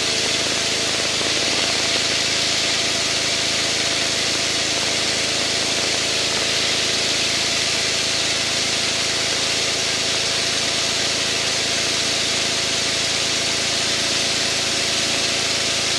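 Steady drone of an aircraft engine heard inside the cockpit in flight, with a constant rushing hiss of airflow over it.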